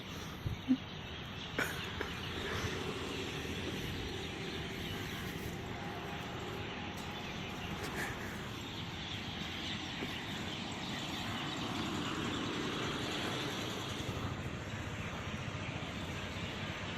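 Steady outdoor background noise with a faint distant traffic hum, and a few soft knocks in the first two seconds.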